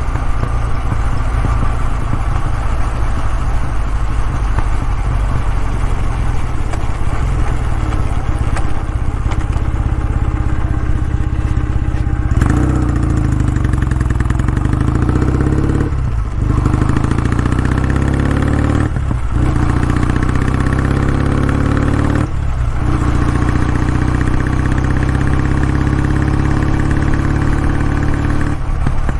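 Kawasaki W650's air-cooled parallel-twin engine running through its exhaust, steady at first. From about twelve seconds in the pitch climbs in steps, broken by brief dips in sound about every three seconds, as when accelerating through the gears.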